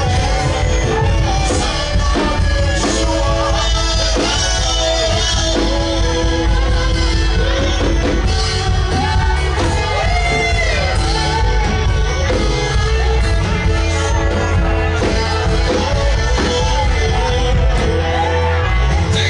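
Live gospel worship music: a voice singing and calling out in rising and falling lines over held keyboard chords and a heavy bass.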